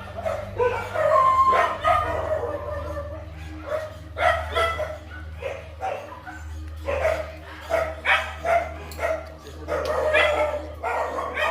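A dog barking and yelping over and over, in short pitched calls about a second apart, over a steady low hum.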